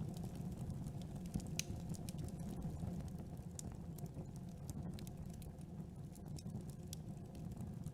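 Campfire burning: irregular small crackles and pops over a steady low rumble of the flames.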